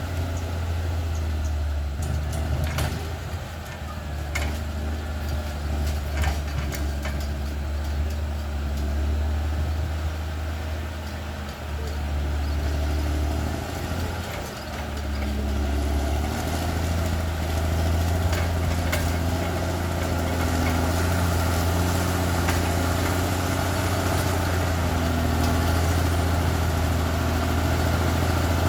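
Caterpillar D6R XL bulldozer's diesel engine running steadily with scattered clanks and knocks, the engine growing louder and heavier about halfway through as it takes on load.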